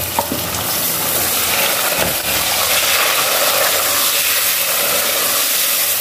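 Chopped tomatoes sizzling in hot oil with fried onions and whole spices, stirred in an aluminium pot: a steady hiss that swells just after the start as the tomatoes hit the oil, then holds.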